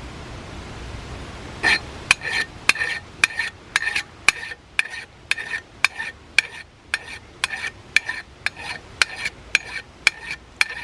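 Hand file scraping back and forth across the head of a silicone bronze rivet on a bronze Leslie back cap, bringing it down flush. The strokes start about a second and a half in and come quickly and evenly, about three a second, each with a short metallic ring.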